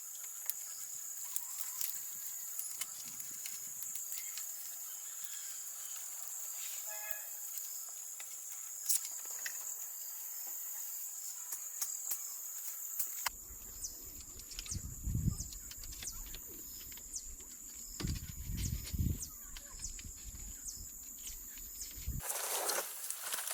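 Outdoor ambience with a steady high-pitched insect drone, scattered small clicks and taps throughout, a few low thumps in the second half, and a brief rushing noise near the end.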